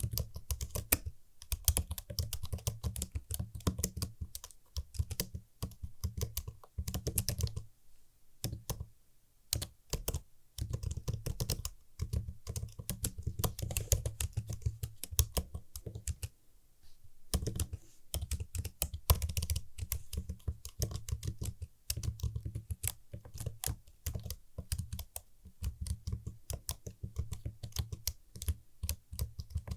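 Fast typing on a computer keyboard: runs of crisp key clicks, with brief pauses about eight and sixteen seconds in.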